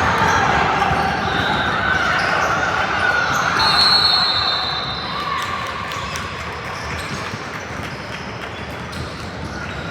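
A basketball bouncing on a gym court amid the echoing murmur of players and spectators, with a short high squeak about four seconds in.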